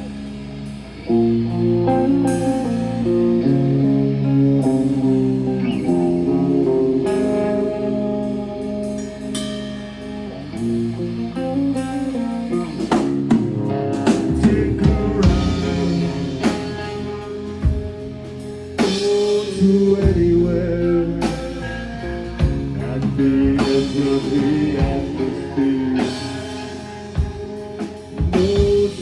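Live rock band playing a song: guitars open it, and the drum kit comes in about halfway, the playing growing louder and fuller.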